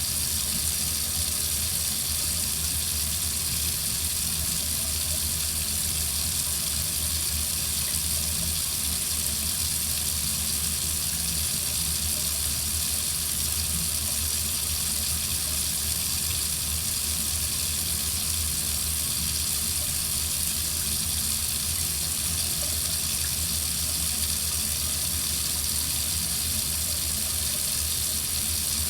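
Water running steadily from a faucet into a sink, an even rushing hiss without breaks.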